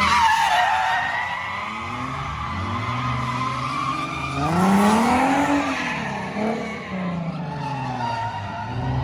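A car drifting: its tyres squeal without a break while the engine revs up and down, climbing to a high rev about five seconds in and then dropping back.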